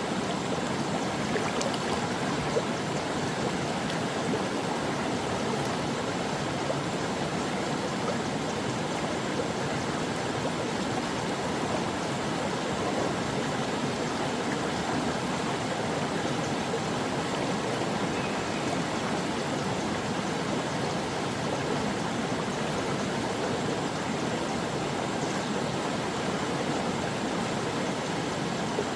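A brook flowing steadily over rocks, an even rush of running water with small gurgles and trickles.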